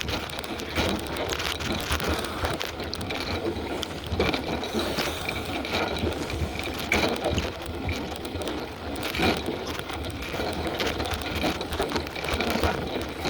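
Bicycle being ridden: a steady rolling, wind-like noise with frequent rattling clicks and knocks from the bike.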